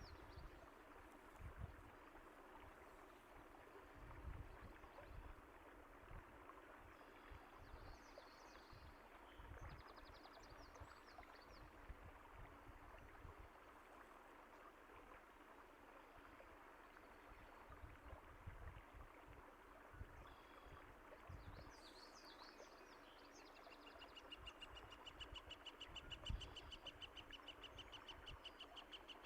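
Faint, steady running water of a stream, with occasional low thuds. Small birds chirp now and then, and near the end one gives a fast trill of rapidly repeated high notes lasting about five seconds.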